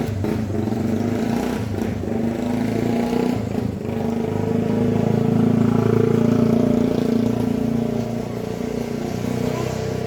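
A motor vehicle's engine running, growing louder to a peak about six seconds in and then easing off, like a vehicle passing along the road.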